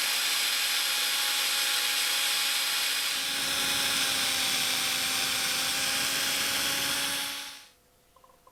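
A small electric power tool running steadily while working material, with a motor whine over a hissing, rushing sound. It is switched off near the end.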